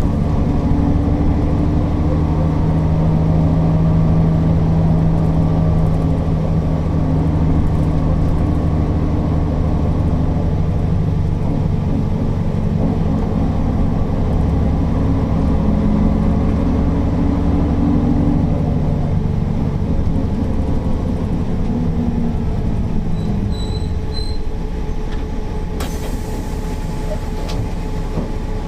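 Mercedes-Benz O408 bus's diesel engine running steadily under load, a deep drone that eases off about two-thirds of the way through while a steady higher whine carries on.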